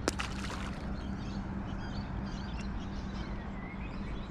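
Birds calling in short chirps and small rising notes over a steady low background rumble, with one sharp click right at the start.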